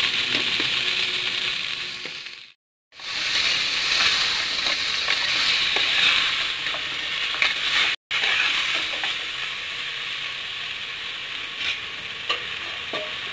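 Pig's leg pieces and potato chunks sizzling in mustard oil in an aluminium pressure cooker pan, stirred now and then with a spoon. The hiss drops out briefly twice.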